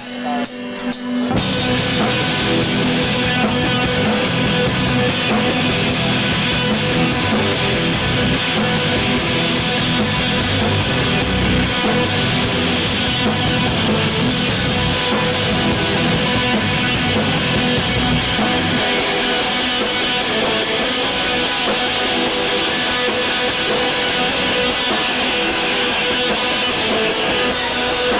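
A post-hardcore/emo rock band playing live: electric guitars and a drum kit come in together about a second in and play on loud and dense. The lowest bass drops away about two-thirds of the way through.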